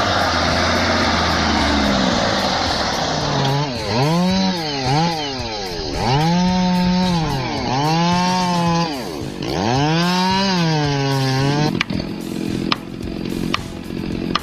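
Chainsaw revving up and down again and again while cutting, its engine pitch climbing and falling about every two seconds. A lower engine sound comes before it at the start, and near the end it gives way abruptly to a steadier sound with several sharp clicks.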